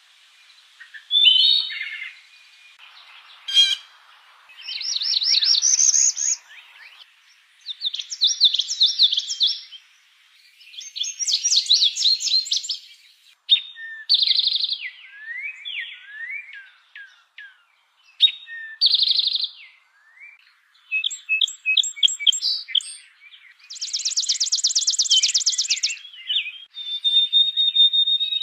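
Songbird song: a run of varied, fast trilled and chirping phrases, each a second or two long, with short pauses between them.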